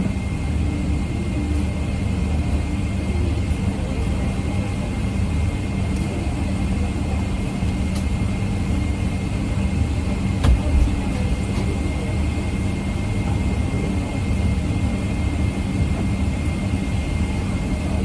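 Steady low hum and rumble inside the cabin of a Boeing 777 airliner standing after boarding, with a faint steady high whine over it. A brief knock sounds about ten seconds in.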